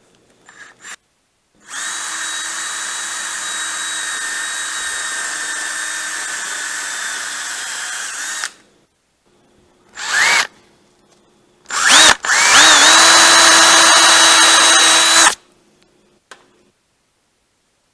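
Handheld high-speed power carving tool (his 'beaver') shaping the outside of a sweet gum log: the motor spins up with a rising whine and runs steadily for about seven seconds. It stops, gives one short rising blip, then runs again for about three seconds.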